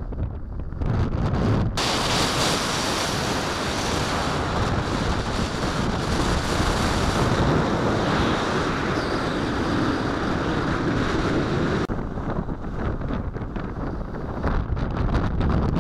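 Strong wind buffeting the microphone, a dense rushing hiss that grows stronger and brighter from about two seconds in and eases off near the end.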